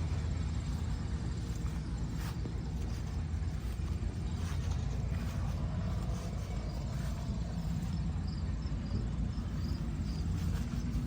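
An engine running steadily at a constant speed, with a faint high chirp repeating about twice a second from about four seconds in.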